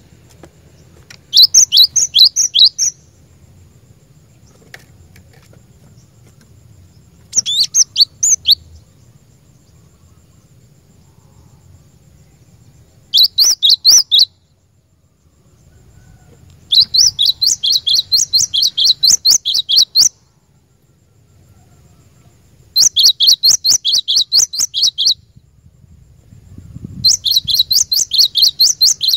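Cinereous tit (glatik batu) singing: six bursts of rapid, repeated high notes, each one to three seconds long, with pauses of a few seconds between them.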